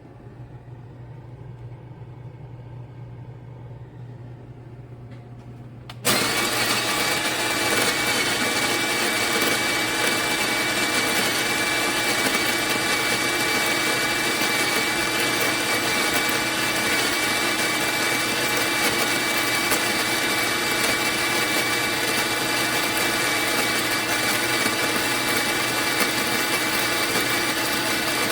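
Fellow Opus electric conical burr coffee grinder switching on about six seconds in and running steadily and loudly, with a faint low hum before it starts.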